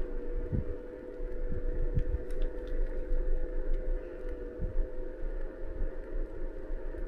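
Electric motor of a small ridden electric vehicle whining steadily while cruising, its pitch creeping slightly upward. Irregular low rumbling thumps sit underneath.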